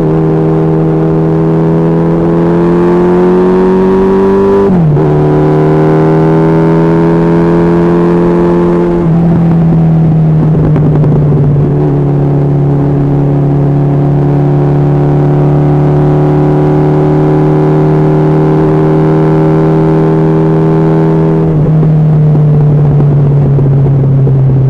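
Honda CB1300SF inline-four motorcycle engine under way at highway speed. It climbs in revs, drops sharply on an upshift about five seconds in, then runs steadily with small dips in pitch.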